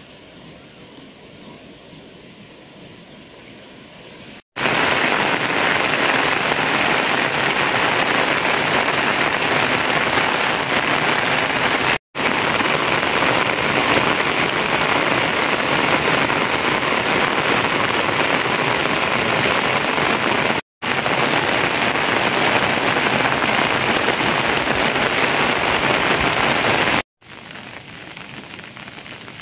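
Steady rain, a dense even hiss. It is fainter at first, gets much louder a few seconds in, and drops back near the end, breaking off for an instant at each change of shot.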